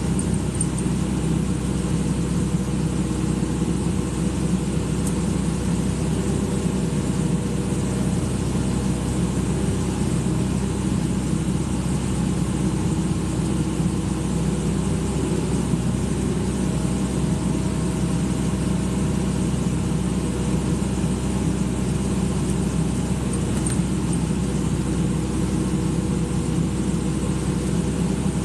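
Excavator engine running steadily at an even speed, with no revving or changes.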